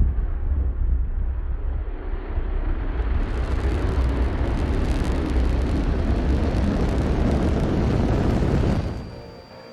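Rocket launch roar from a Vulcan Centaur lifting off on its main engines and solid rocket boosters: a loud, steady, deep rumble that starts abruptly and fades away near the end.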